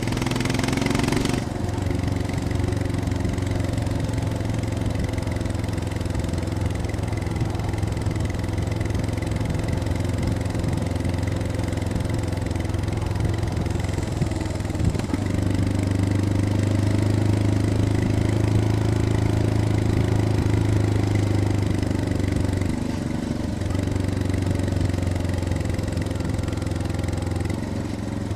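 Royal Enfield Scram 411's single-cylinder engine running at steady low revs under way. Its note rises a little past the middle and dips briefly near the end.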